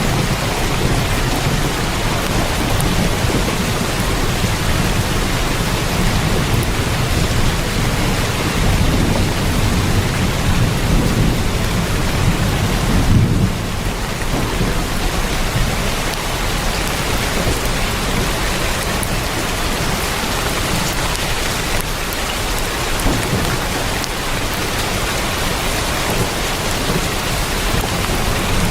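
Heavy rain drumming on a tin roof, with a low rumble of thunder through the first half that drops away abruptly about halfway through, leaving the rain alone.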